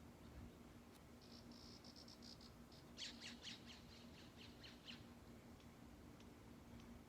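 A songbird singing faintly: a quick run of high notes, then a series of about ten sharp down-slurred notes that fade toward the end.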